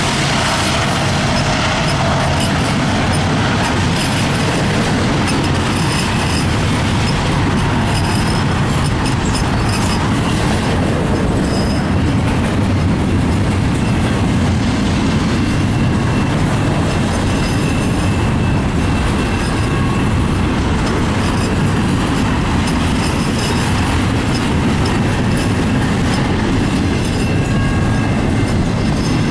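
Double-stack intermodal freight cars of a CN train rolling past close by: a loud, steady rumble of steel wheels on rail. A thin high tone comes in about halfway through.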